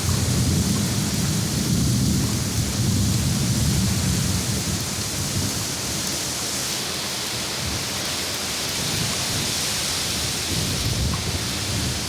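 Heavy tropical downpour pouring steadily, with a low rolling rumble of thunder over the first five seconds that fades away. The rain's hiss grows stronger from about halfway through.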